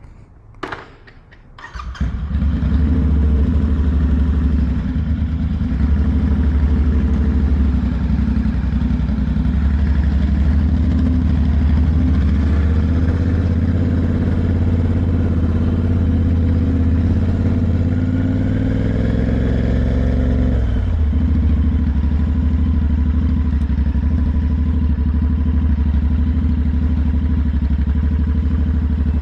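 A few short clicks, then a motorcycle engine starts about two seconds in and settles into a steady idle. About twenty seconds in the idle pitch drops slightly.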